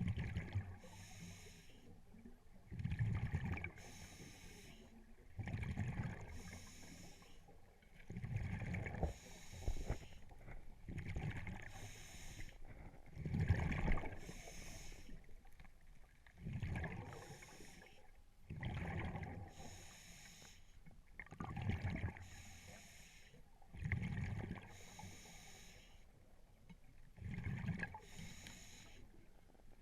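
Scuba diver breathing through a regulator: a hiss on each inhale, then a gurgling burst of exhaled bubbles, repeating regularly about every two and a half to three seconds.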